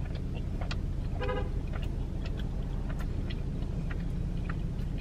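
Steady low rumble of a parked car's idling engine heard inside the cabin, with soft clicking chewing sounds and a short horn toot about a second in.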